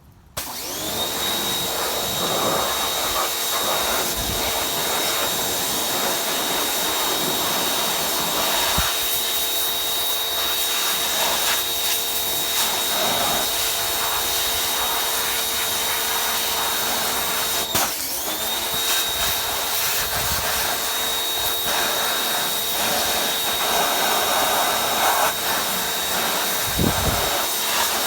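Pressure washer running: a steady motor whine over the hiss of spray, starting up with a short rising whine. About two-thirds of the way through it stops for a moment and spins back up.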